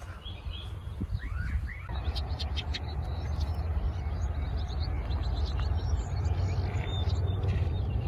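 Several songbirds chirping and calling in short, quick notes over a steady low rumble, with the noise filling in more from about two seconds in.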